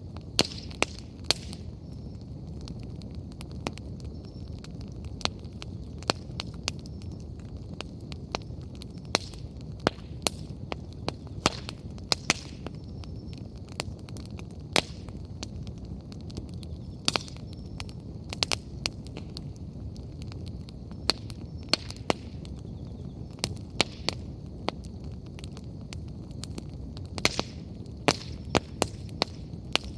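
Wood bonfire burning: burning firewood gives off irregular sharp crackles and pops, several clustered together at times, over a steady low rumble.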